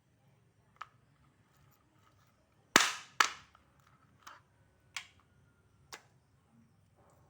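A series of six sharp knocks or cracks at irregular intervals, the loudest two close together about three seconds in, each dying away quickly.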